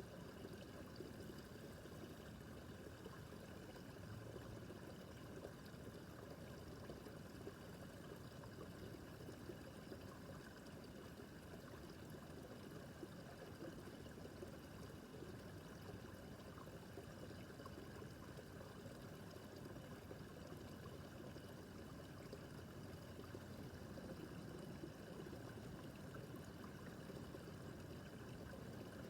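Small brook babbling steadily, water trickling and splashing over stones, faint.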